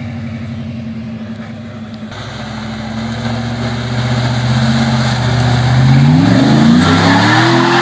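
Truck engine running under load as it drives through water, with a rush of splashing water starting about two seconds in; the engine revs up over the last two seconds and grows louder.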